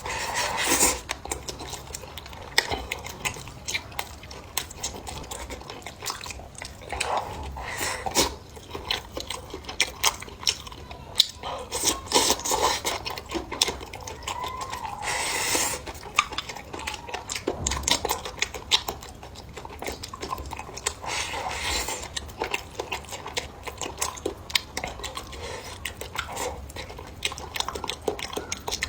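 Close-up eating sounds: utensils clicking and scraping against dishes, with chewing in between.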